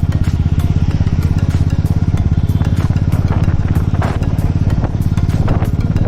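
Royal Enfield Classic 350's single-cylinder engine running steadily on the move, its exhaust beating in a fast, even pulse.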